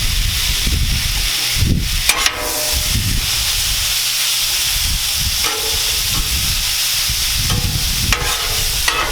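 Seasoned cod fillets sizzling steadily in coconut oil on a hot Blackstone flat-top griddle, with a low rumble underneath.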